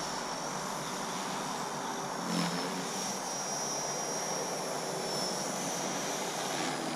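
Align T-Rex 450 electric RC helicopter in flight: a steady high whine from its motor and rotors over a whooshing rotor noise, the pitch wavering slightly as it flies.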